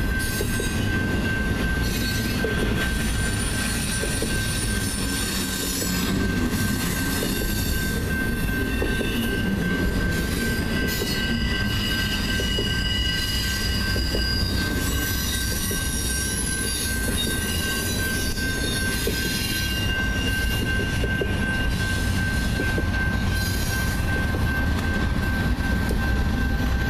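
Double-stack container train rolling past at speed: wheels rumbling and clattering on the rails, with shifting high-pitched wheel squeal and a steady high ring from the grade-crossing bell. Near the end, BNSF diesel locomotives start to pass and the sound gets a little louder.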